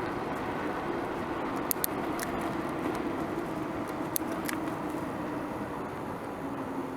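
Steady road noise while riding a bicycle, with a few sharp clicks or rattles around two seconds in and again about four seconds in.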